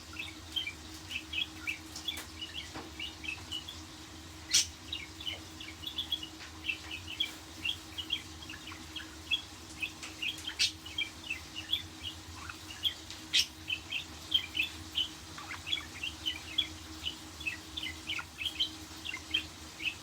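Budgerigars chirping and warbling, a steady stream of quick high chirps, with three sharper, louder sounds about a third, half and two thirds of the way through.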